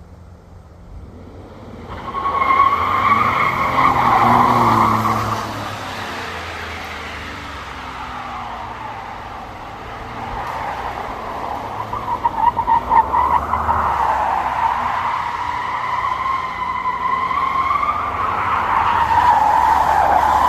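Tyres squealing on pavement as a vehicle skids, most likely the pickup truck pulling away. It is a long wavering squeal that starts about two seconds in, stutters briefly past the middle, and swells louder again near the end.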